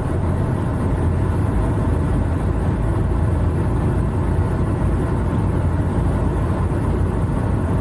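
Semi truck's diesel engine running steadily, a low, even rumble heard from inside the cab while driving.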